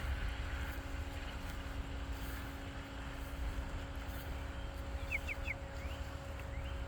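Outdoor ambience: a steady mechanical hum with a low rumble under it, and a bird chirping a few quick rising notes about five seconds in.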